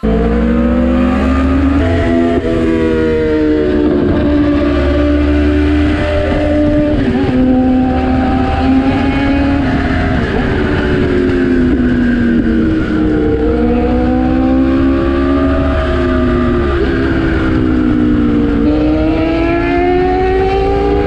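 Yamaha MT-10's crossplane inline-four engine accelerating hard through the gears: the revs climb, drop at each upshift, and climb again several times, over wind rush on the microphone.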